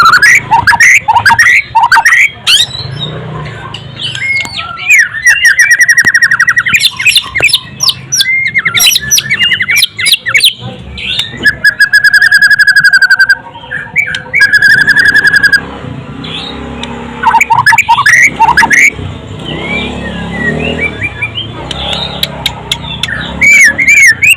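White-rumped shama (murai batu) singing a loud, varied song of sweeping whistles broken by long, fast trills.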